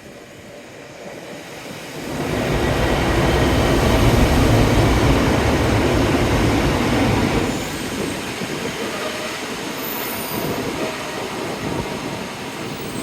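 A train passing, its noise swelling about two seconds in and staying loud for several seconds before easing to a quieter, steady rumble.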